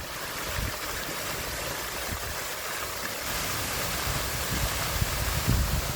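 Steady rushing of water cascading down a man-made waterfall over boulders, growing a little louder about three seconds in, with an uneven low rumble underneath.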